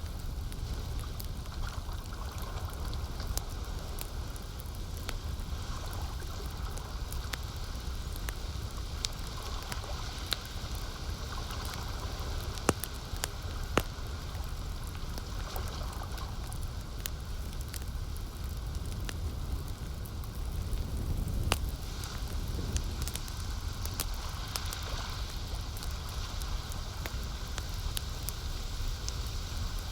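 Wood campfire crackling, with frequent sharp pops and snaps, over a steady low wash of lake water. A couple of louder pops come about halfway through.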